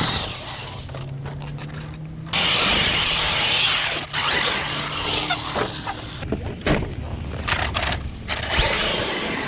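Large brushless RC monster truck driving on dirt, with loud stretches of rushing tyre noise, the heaviest about two to four seconds in, and a few sharp knocks.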